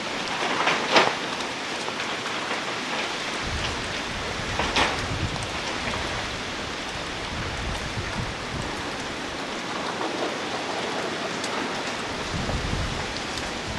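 Heavy typhoon rain pouring steadily, with louder swells about a second in and again near five seconds, and a low rumble in the middle and near the end.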